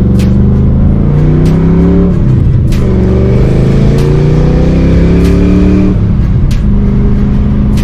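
Ford Mustang engine heard from inside the cabin, accelerating through the gears of a manual gearbox. The revs climb, drop at an upshift about two seconds in, climb again, and drop at a second upshift about six seconds in, then hold steady.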